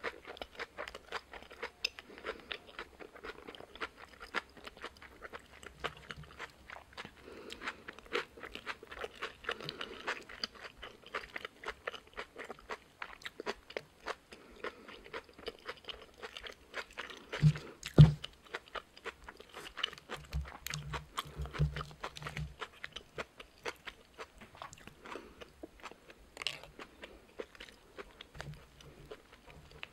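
Close-miked chewing and crunching of boiled pork wrapped in napa cabbage and lettuce, with many small wet mouth clicks. A sharp low thump comes a little past halfway, and a few softer low knocks follow.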